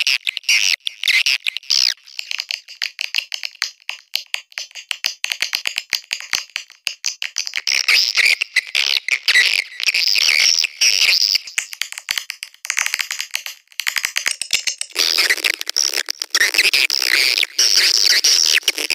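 Swiftlets' rapid, rattling chatter and twittering, several calls overlapping without a break, a fuller, denser stretch starting about 15 seconds in. This is a swiftlet mating-call track of the kind played as a lure call to draw swiftlets to roost.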